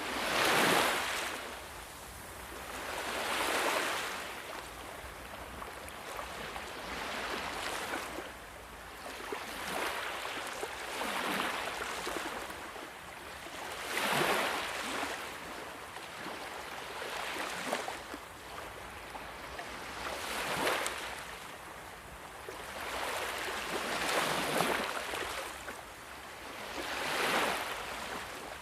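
Sea waves breaking and washing up the shore, one surge of rushing water every few seconds.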